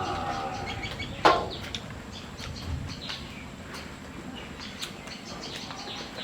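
Birds chirping, with one loud, sharp, falling chirp about a second in and fainter short chirps after it.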